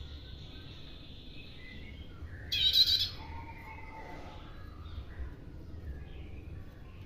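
Prinia (prenjak) giving a loud, short burst of rapid high notes about two and a half seconds in, lasting about half a second, with fainter bird calls before and after it.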